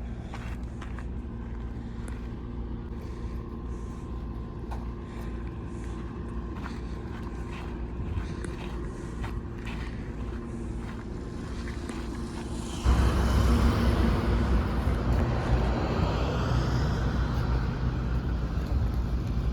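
Diesel engine running steadily at a low pitch, with scattered small clicks. About thirteen seconds in the sound turns suddenly much louder and rushing, and stays that way.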